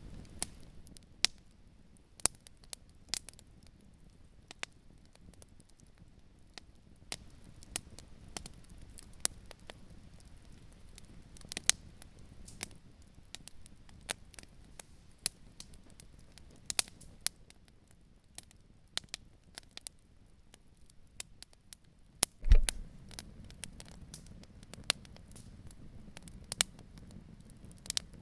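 Wood campfire crackling, with irregular sharp pops a few times a second over a faint low rumble. A single loud low thump comes about 22 seconds in.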